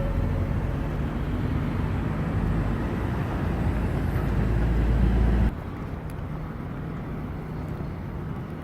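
Low, steady rumble of vehicle traffic on a city street, with an engine hum. It cuts off abruptly about five and a half seconds in, leaving a quieter traffic hum.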